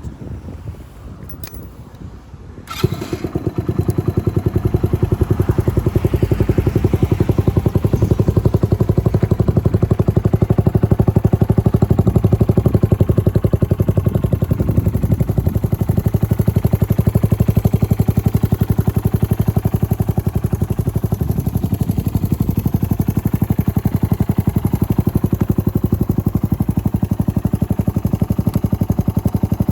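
Suzuki GN125H's single-cylinder four-stroke engine, fitted with a Capton aftermarket muffler, turning over briefly and catching about three seconds in, then running steadily with an even exhaust beat.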